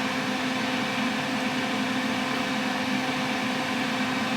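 Steady whir and hum of a running car, a fan-like rush over a constant low tone.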